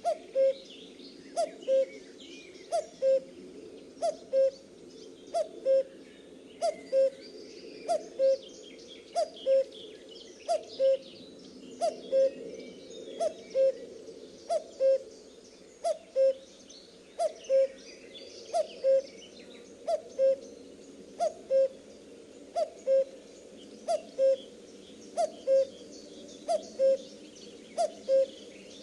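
Male common cuckoo (Cuculus canorus) calling its two-note "cu-coo", a higher note dropping to a lower one, repeated steadily about every second and a half. Other small birds twitter faintly behind it.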